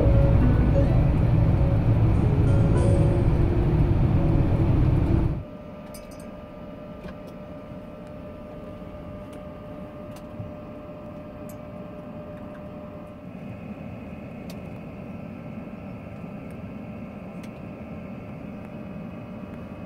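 Loud, steady low rumble of a vehicle in motion, as heard from inside. About five seconds in it cuts off abruptly, leaving a much quieter steady hum with a few faint clicks.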